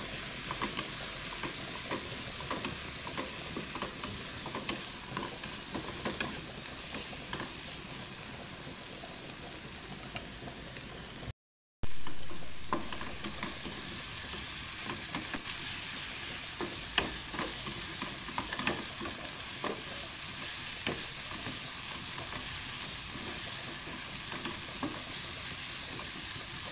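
Ground shallot-and-garlic spice paste sizzling in a little hot oil in a small frying pan, being sautéed until fragrant while a spatula stirs and scrapes it against the pan in scattered light clicks. The sizzle cuts out for a moment about halfway through.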